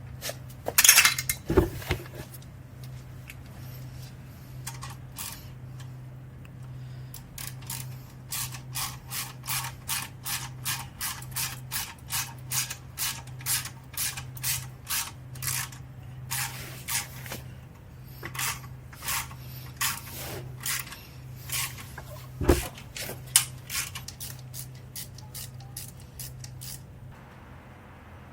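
Ratchet wrench worked in quick back-and-forth strokes while tightening exhaust bolts: an even run of short rasping clicks about two a second, with a couple of single knocks of tools on metal, over a steady low hum.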